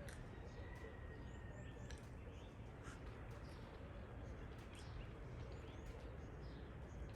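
Faint early-morning birdsong: scattered short chirps and calls from small birds, over a steady low background rumble.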